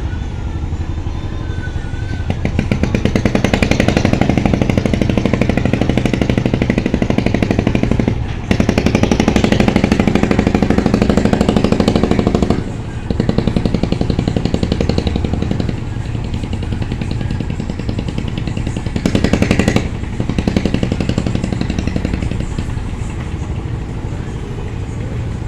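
Ship's engine running with a steady low hum, several times rising for a few seconds into a louder, rapid, even chugging, as when the engine takes load during departure from the pier.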